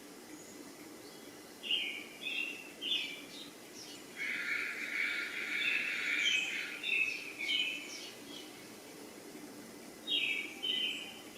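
Birds chirping: short high notes repeated in quick groups, with a longer, fuller call in the middle, over a faint steady background.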